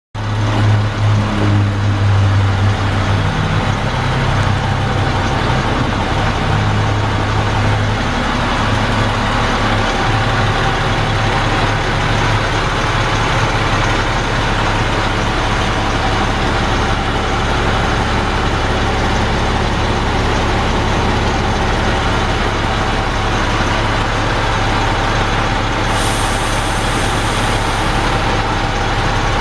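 International DT466 inline-six diesel of a dump truck idling. It runs a little stronger and less even for about the first eight seconds, then settles into a steady idle. A high hiss sounds for about two seconds near the end.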